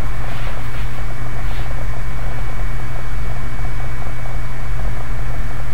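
A steady, loud hum and hiss that holds unchanged throughout, with a thin high-pitched whine over it.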